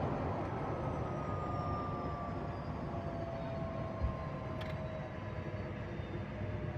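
Cessna Citation XLS+'s twin turbofan engines spooling down during the landing rollout, their whine falling slowly in pitch over a steady rumble of the aircraft rolling down the runway. A single brief thump about four seconds in.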